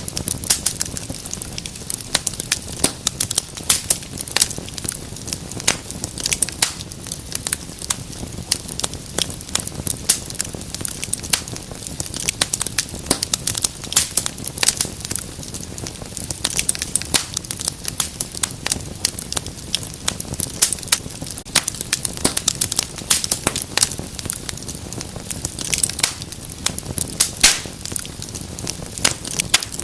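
Wood fire burning in a fireplace, with a steady hiss and dense, irregular crackles and pops.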